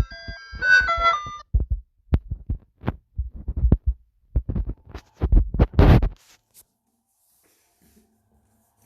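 A short electronic jingle of a few stepped notes, then a run of irregular dull thumps and knocks lasting about four and a half seconds, before it goes quiet.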